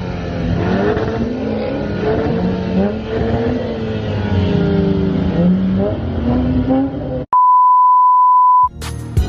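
A car engine running and being revved, its pitch climbing, holding and dropping several times. About seven seconds in it cuts off, a steady high beep tone sounds for about a second and a half, and music starts near the end.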